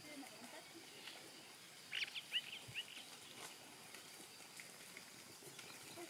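Faint outdoor ambience with a small bird giving a quick burst of high chirps about two seconds in.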